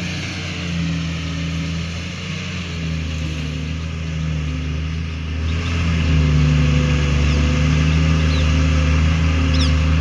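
JCB 3DX backhoe loader's diesel engine running at a steady speed, getting louder about six seconds in.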